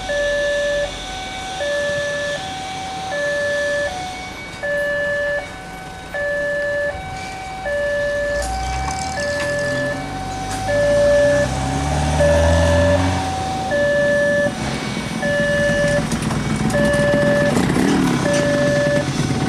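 Railway level-crossing warning alarm sounding a two-tone electronic chime, alternating a higher and a lower tone about every three-quarters of a second. From about eight seconds in, a diesel locomotive's engine note rises as it approaches. In the second half the rumble of the passing train builds under the chime.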